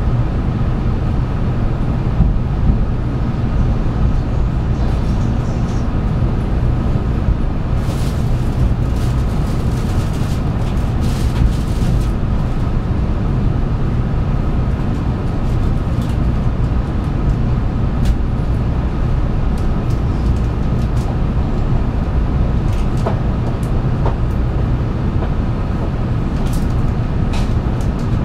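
Steady low rumble and hum of a 700 series Shinkansen train, with a scatter of short clicks and ticks, most of them about a third of the way in.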